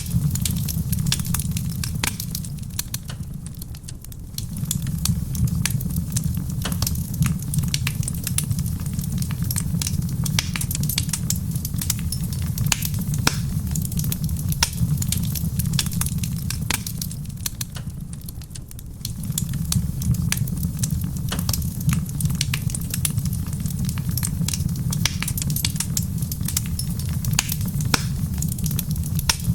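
Wood fire in a stone fireplace crackling, with frequent irregular sharp pops and snaps over a steady low rumble. The rumble fades briefly twice, a few seconds in and about two-thirds of the way through.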